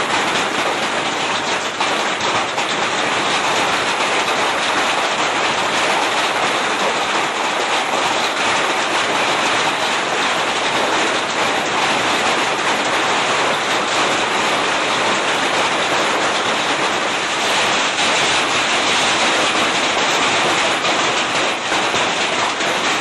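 Heavy rain pouring down, a steady, dense hiss of drops that keeps up without a break.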